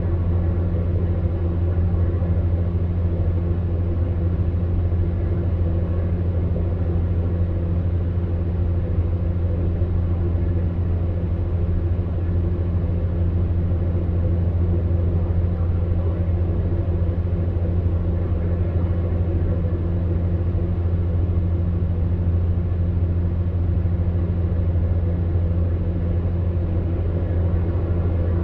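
Electric fan heater running steadily: a deep, even hum with fainter tones above it and a soft rush of blown air, unchanging throughout.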